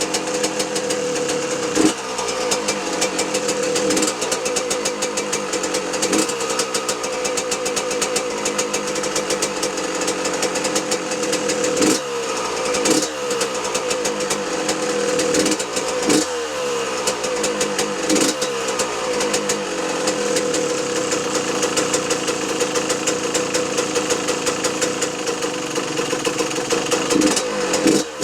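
Freshly rebuilt 2006 Yamaha YZ125 two-stroke single-cylinder engine running at a fast idle. The throttle is blipped several times, mostly around the middle, and the revs fall back after each blip. Loose screws rattle on the bike.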